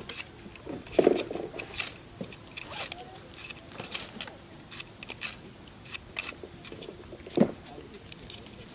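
A series of short scrapes and clicks, with two louder knocks, one about a second in and one near the end.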